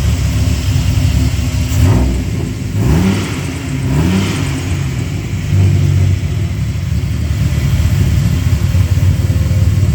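Ram SRT-10's 8.3-litre Viper V10 idling steadily, with two short rises in pitch about three and four seconds in. The engine is firing on all cylinders and the valve train sounds smooth.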